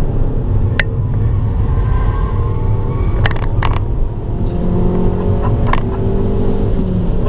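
Abarth 595 Turismo's 1.4-litre turbocharged four-cylinder engine pulling under way on track, its note shifting in pitch over a steady low rumble, with a few sharp clicks.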